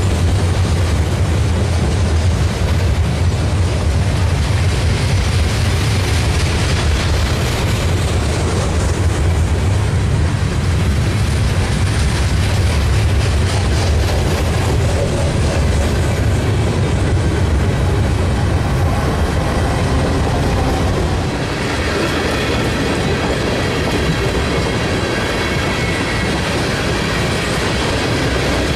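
A freight train passes close by: a pair of mid-train Norfolk Southern diesel locomotives go past with a steady deep engine drone, which gives way about 21 seconds in to tank cars rolling by, their steel wheels clattering on the rails with a faint high squeal.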